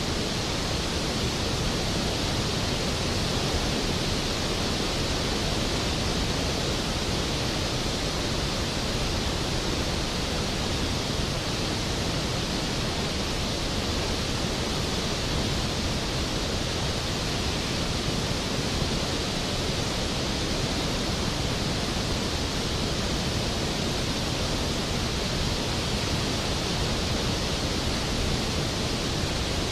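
Skógafoss waterfall's water falling, a steady, unbroken rush.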